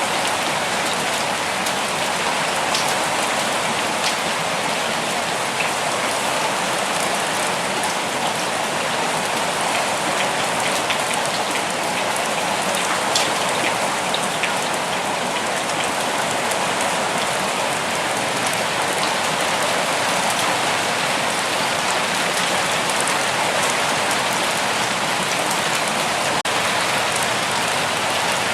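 Steady forest rain falling, a dense even hiss of drops with a few individual drops ticking out now and then.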